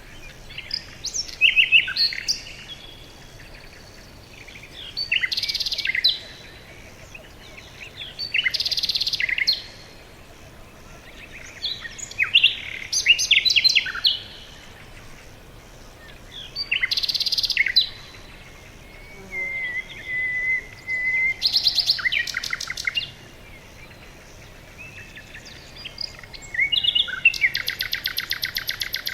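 Songbirds singing in a forest: short phrases of one to two seconds each, every few seconds, some ending in fast trills, over a faint steady background hiss.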